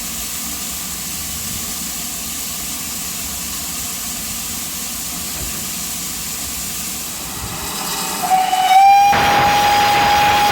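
Steam locomotive 4555 Warrior, a GWR small prairie tank engine, blowing its steam whistle about eight seconds in: one long, steady note that rises slightly as it opens, with a rush of steam under it, signalling departure. Before the whistle there is a steady hiss.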